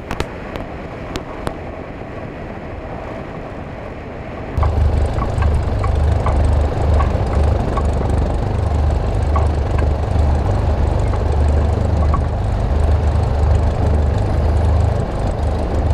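Cessna 172's piston engine and propeller droning inside the cabin: a loud, steady low drone that cuts in abruptly about four and a half seconds in. Before it, a quieter steady noise with a few clicks.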